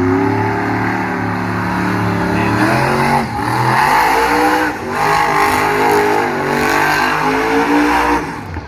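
Monster truck engine revving loud. Its pitch climbs and falls several times as the throttle is worked, then drops away near the end.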